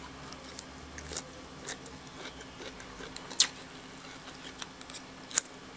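Close-miked eating sounds: a person chewing noodles, with scattered soft mouth and utensil clicks and two sharper clicks in the second half.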